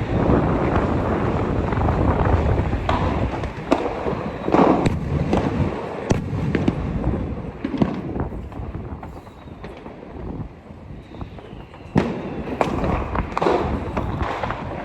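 Firecrackers and fireworks going off, a rapid run of sharp bangs and cracks over a rumbling background. The bangs thin out a little past the middle, then pick up again near the end.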